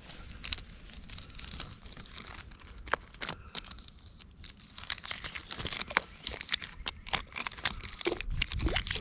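Irregular crunching and crackling of dry leaves and twigs underfoot and being rummaged through.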